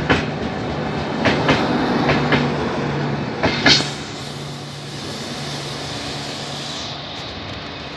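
Indian Railways passenger train's coach wheels clattering over rail joints in quick pairs of knocks as the last coaches pass close by. About four seconds in, the clatter stops and the sound drops to a fainter, steady rumble and hum as the train moves away.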